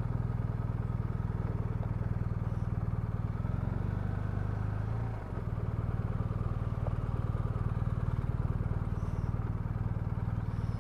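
BMW R1250RT's boxer twin engine running steadily at low speed, its note dipping briefly about five seconds in and then picking up again.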